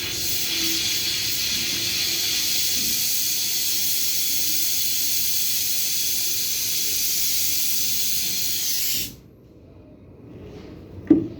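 Gas brazing torch flame hissing steadily on refrigerator tubing, then cutting off abruptly about nine seconds in. A single short, sharp knock follows near the end.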